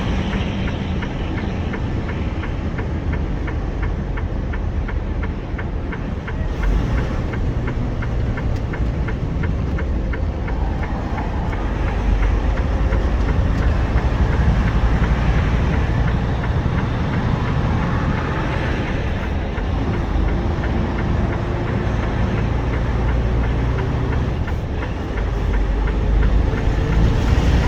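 Steady low rumble of vehicle and road noise on an interstate highway, with a regular light ticking through roughly the first ten seconds and a faint rising whine near the end.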